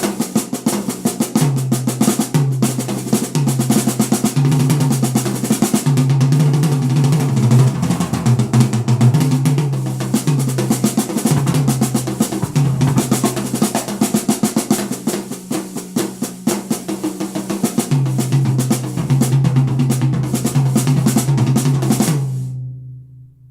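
Drum-heavy music with a busy snare and a stepping bass line, played through a pair of Canton Plus S two-way mini speakers (110 mm woofer, 25 mm dome tweeter). The music stops abruptly near the end.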